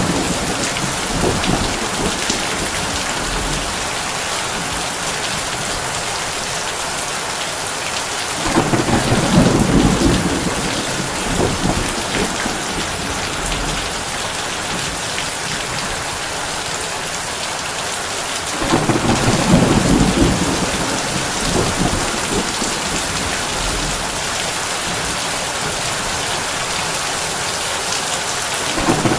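Heavy rain drumming steadily on a tin roof. Low thunder rumbles roll in about every ten seconds, each swelling and fading over a few seconds.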